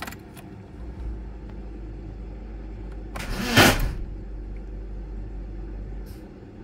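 BMW E36's M42 1.8-litre four-cylinder engine being cranked over with a steady low rumble, giving one loud cough about three seconds in without running: the engine is rejecting the ignition coil timing being tried.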